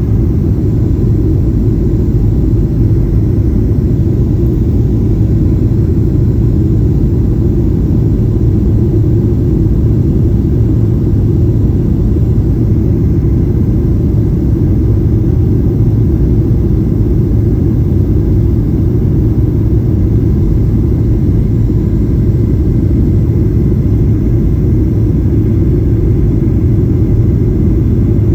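Steady low rumble inside the cabin of a Boeing 737-800 airliner in flight: the engine and airflow noise of its CFM56-7B turbofans.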